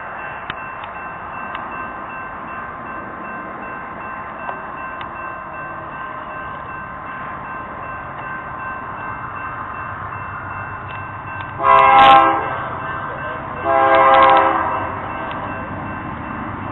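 Norfolk Southern locomotive air horn sounding two long blasts about two seconds apart, late in the stretch, as a train approaches.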